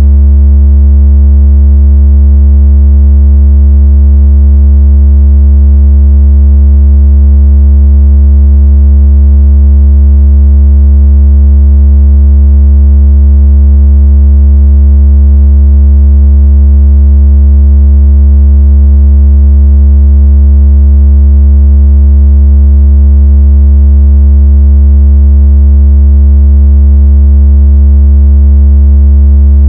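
A single deep electronic tone held steady and very loud, with a faint buzzy edge from its overtones. It is a synthetic bass vibration tone of the kind played through a phone speaker to shake water out of it.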